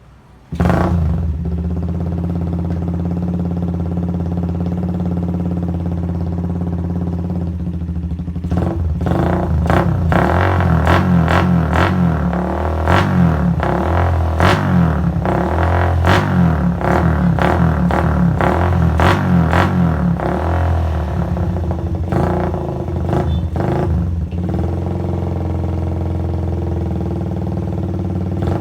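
Suzuki Satria FU's 150 cc single-cylinder four-stroke engine running through an imitation Kou Machai aftermarket exhaust. It comes in suddenly and idles steadily, then from about eight seconds in it is revved in quick repeated throttle blips. Around twenty seconds in it settles back to idle, with a few more blips.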